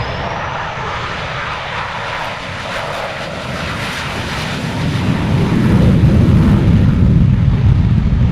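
F/A-18 Super Hornet's twin turbofan jet engines at high power as it goes around after a bolter, a missed carrier-style arrestment. There is a faint rising whine at the start, and a deep rumble grows louder about five seconds in as the jet passes.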